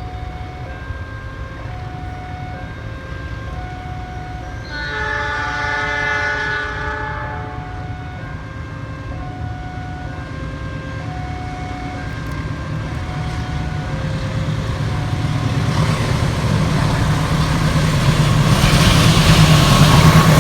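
A repeating two-tone electronic warning signal sounds throughout. About five seconds in, a train's horn blows once for a couple of seconds. From about two-thirds of the way through, the rumble of an approaching train grows steadily louder.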